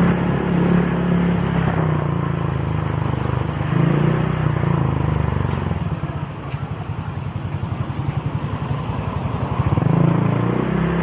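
Honda Click scooter's single-cylinder four-stroke engine running through an aftermarket exhaust pipe while riding. About six seconds in, the engine drops to a lower, pulsing putter as the throttle eases off, then picks up again near the end.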